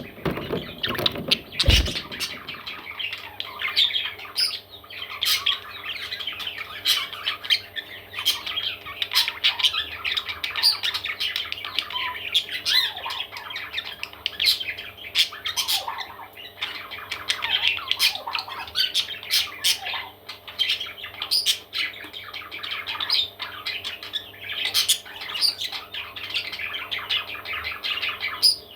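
Parrot chicks squawking, with many short, rasping calls overlapping without a break, over a steady low hum.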